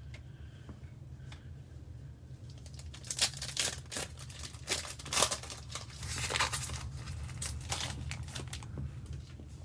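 A trading-card pack wrapper being torn open by hand and crinkled, a quick run of rips and crackles starting about three seconds in, over a steady low hum.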